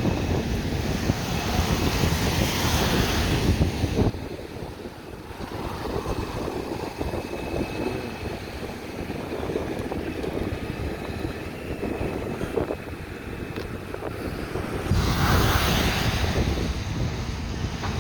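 Road traffic passing with wind buffeting the microphone, louder in the first four seconds and again about fifteen seconds in.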